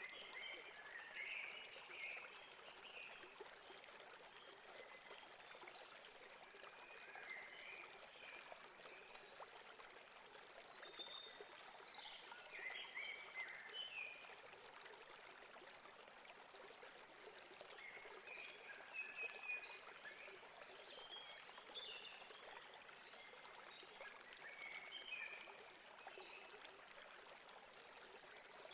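Faint, steady rush of a flowing stream, with small birds chirping here and there over it, a cluster of sharper calls about twelve seconds in and more toward the end.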